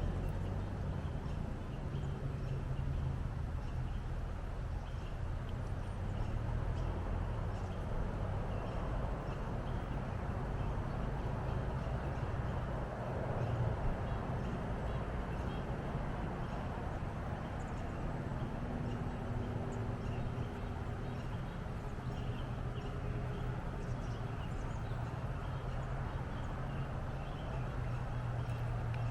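Wind buffeting the microphone outdoors: a steady low rumble that keeps shifting, with a hiss of moving air over it.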